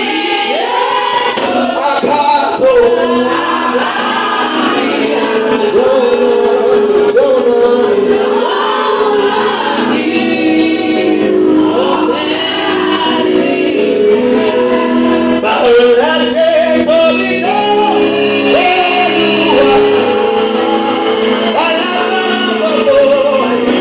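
A group of men's and women's voices singing gospel worship music together.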